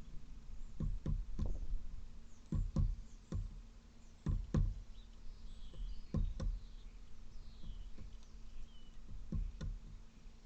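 Dull knocks, mostly in pairs, every second or two: a raven pecking at an egg with its bill. Faint, short, falling bird chirps come from other birds around the middle.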